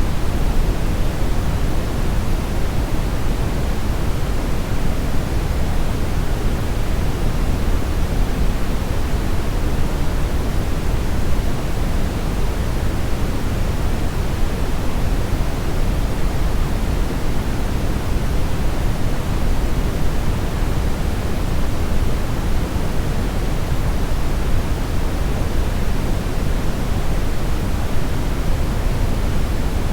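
Steady synthetic brownish noise: an even, unchanging rumble-heavy hiss, strongest in the bass and fading toward the treble, with no events or changes.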